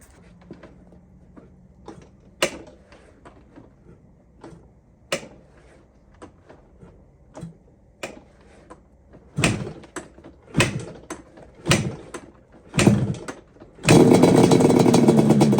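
Yamaha Banshee's 350 cc twin-cylinder two-stroke engine being kick-started cold on choke: small clicks and knocks, then four hard kicks about a second apart, and the engine catches and runs loudly about two seconds before the end.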